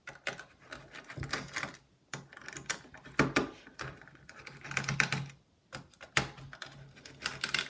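Light irregular clicking, tapping and scraping of a precision screwdriver and small metal parts being handled while the screws of a laptop's heatsink are undone.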